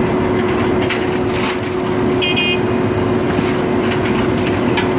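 Demolition excavator running with a steady engine hum, with scattered faint knocks from the work; a brief high chirp about two seconds in.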